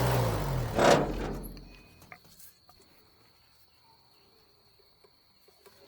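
A sawmill engine drops in pitch and dies away over the first second or two. Then, in near quiet, a cricket keeps up a steady high trill.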